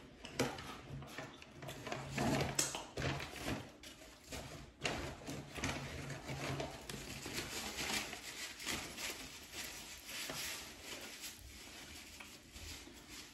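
Irregular rustling and crinkling with many light clicks and knocks: takeout food packaging and dishes being handled as food is served.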